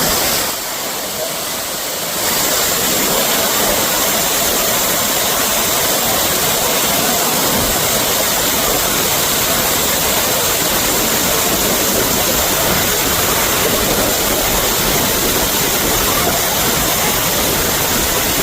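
Waterfall rushing, a steady roar of falling water that gets louder about two seconds in.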